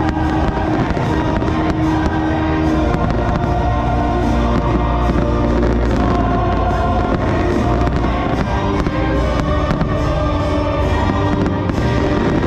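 Fireworks bursting again and again over loud show music with steady held notes.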